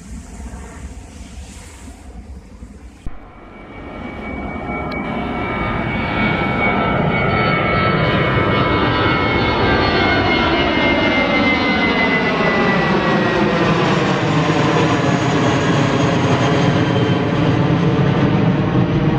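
Airplane flying low overhead. Its engine noise swells over a few seconds and then stays loud, with a high whine sliding slowly down in pitch.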